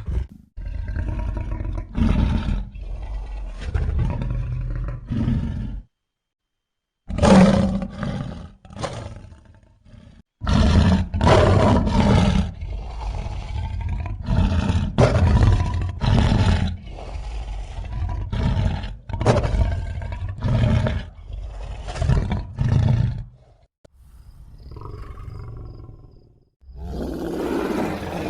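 Cave bear sound effects: a string of deep animal roars and growls, each a separate call of about half a second to two seconds, with short pauses between them and two brief silences.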